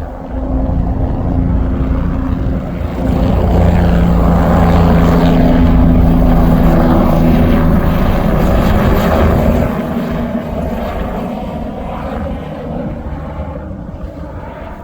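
Helicopter taking off: a loud steady rotor and engine sound that grows for the first few seconds, holds, then drops off about two-thirds of the way in and fades as it flies away.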